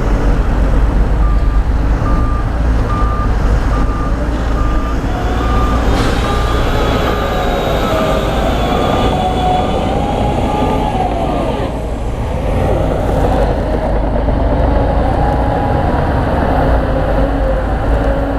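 Heavy construction machine's diesel engine running with a deep, steady rumble. A reversing alarm beeps at an even pace over it, about one and a half beeps a second, and stops about twelve seconds in.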